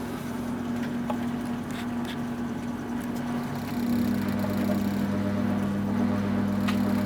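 1974 Zoppas Superautomatic 242 washing machine running an 80 °C wash, with a steady hum. The motor hum gets deeper and louder about four seconds in.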